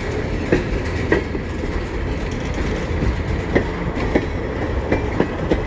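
Freight train cars rolling slowly past: a steady low rumble with irregular sharp clicks and clanks from the wheels on the rails.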